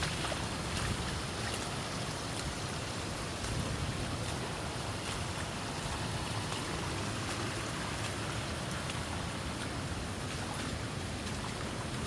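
Steady rushing of flowing water, an even noise with no letting up.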